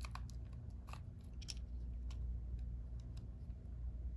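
Small screwdriver working the battery-compartment screw on the underside of a plastic toy bird: scattered light clicks and scrapes of metal on the screw and plastic, irregular, about one or two a second, over a steady low hum.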